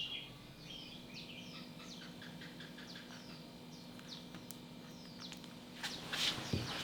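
Small birds chirping: a run of short, quick falling chirps, a few each second. Near the end come several sharp scuffing knocks.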